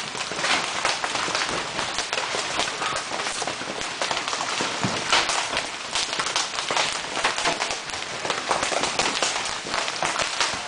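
Large hailstones pelting down in a dense, irregular clatter of hard impacts, mixed with heavy rain.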